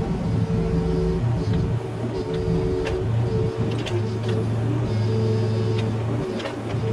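Mini excavator's diesel engine running under load, its hydraulic whine shifting as the controls are worked, with scattered sharp knocks and scrapes from the bucket and debris.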